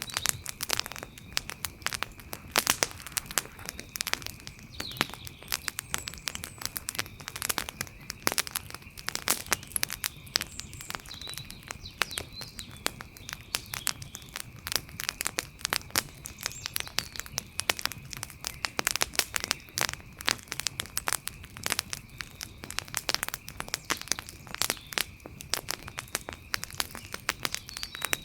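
Campfire crackling, with frequent irregular pops and snaps.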